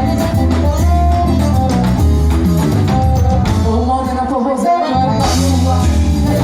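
Live band music: a sung melody over a steady bass line, guitar and percussion beat. The band thins out briefly about four seconds in, then comes back in full with a bright cymbal wash.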